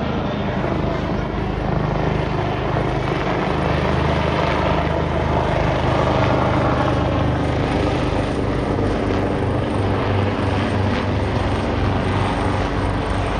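State police helicopter flying close, its rotor and engine running steadily and loudly.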